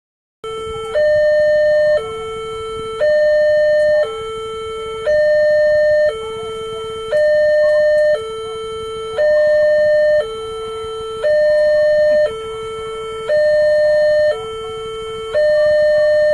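Railway level-crossing warning alarm sounding: two electronic tones, a lower and a higher one, alternate about once a second, the higher tone louder. It starts about half a second in.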